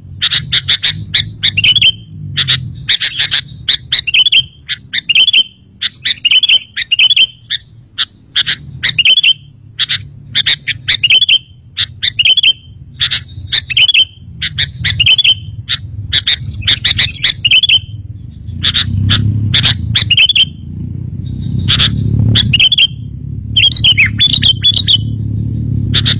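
Sooty-headed bulbul (kutilang) singing: short, quick chirping phrases repeated about once a second, over a low rumble that grows louder in the second half.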